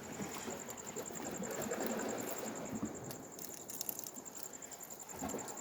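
Insects chirping in a steady, rapid high-pitched pulse, with a faint murmur underneath.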